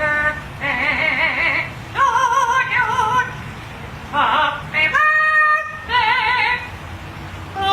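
A singing voice holding short, wavering notes with heavy vibrato in phrases of about half a second to a second, with brief gaps between them.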